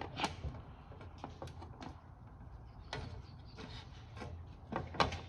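Scattered light clicks and knocks of hands working metal parts at a 14-inch chop saw's blade hub while loosening the blade bolt, with a quick pair near the end, over a faint low hum.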